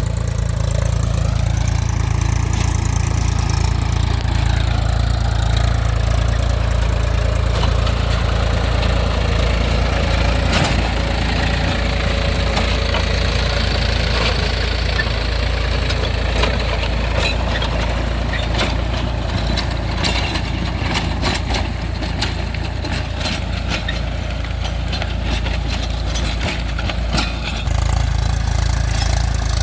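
Mahindra 275 DI TU tractor's diesel engine running steadily with a heavy low rumble, joined by many sharp clicks and knocks through the second half. The rumble dips briefly near the end, then picks up again.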